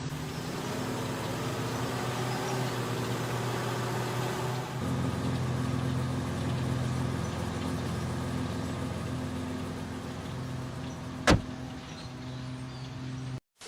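A vehicle engine running steadily, its note shifting about five seconds in, with a single sharp click near the end.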